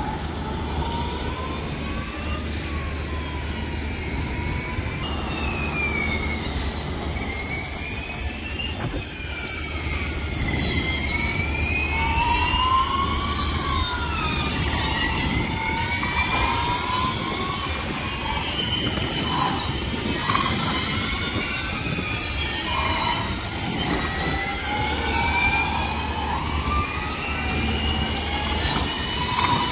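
Formula E electric race cars running on track: several overlapping high whines from the electric drivetrains sweep up and down in pitch as the cars accelerate, brake and pass, over a steady low hum.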